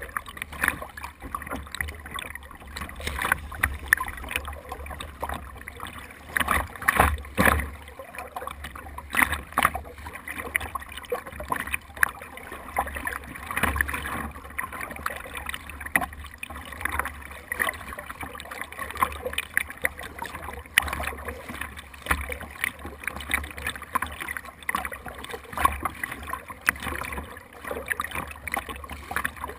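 Water splashing and sloshing around a GoPro mounted on a small craft moving through waves, with irregular sharp splashes over a steady low rumble.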